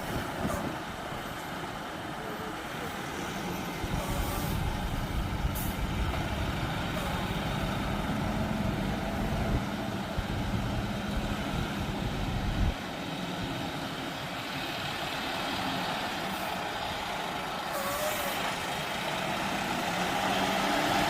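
Heavy truck engine running under load, getting louder about four seconds in and dropping off suddenly about halfway through, then running on more quietly. A few short hisses come at the start and near the end.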